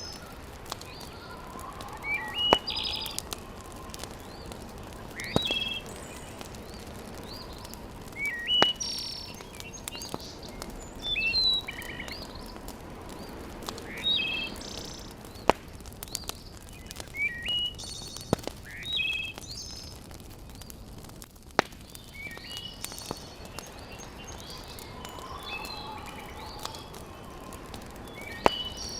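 A bird singing short chirping phrases, repeated every few seconds, over a steady background hiss. A few sharp single pops are heard between them, like logs crackling in a wood fireplace.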